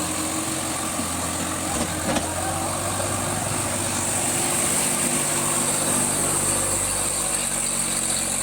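Tractor engine running steadily at idle, with a brief knock about two seconds in.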